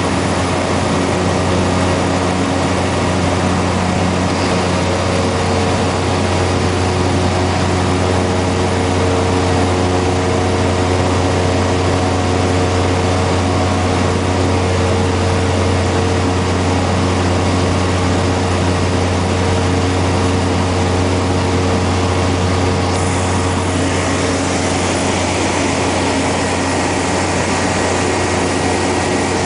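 Cessna Grand Caravan's turboprop engine and propeller running steadily, a deep, even drone with a hiss over it that grows a little stronger about two thirds of the way through.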